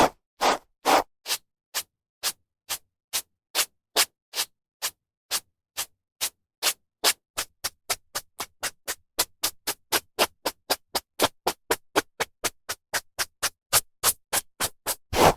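Hairbrush stroking through hair in a long run of quick, even strokes, about two to three a second at first and speeding up to about four a second in the middle, with a few longer, louder strokes near the end.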